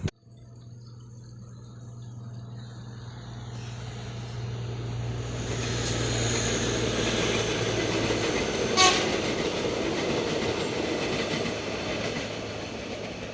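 Train approaching and passing at speed: a low steady hum at first, then rail noise that builds to a peak in the middle and eases off, with one sharp clank about nine seconds in.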